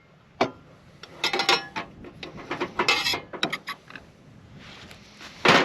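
Small metal camp coffee percolator and cookware being handled: a run of clinks, knocks and light clatter, some with a brief metallic ring, as the coffee is set up.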